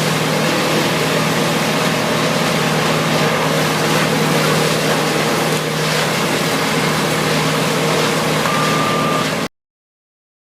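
Vermeer WC2300XL whole-tree chipper running steadily with a constant engine drone and mechanical noise. The sound cuts off suddenly about a second before the end.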